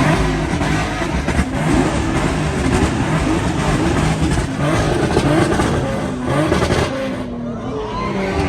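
Car engines revving hard over and over, the pitch sweeping up and down many times in quick succession.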